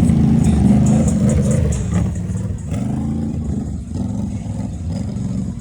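Can-Am Outlander ATV's V-twin engine running under throttle, easing off a little about two seconds in.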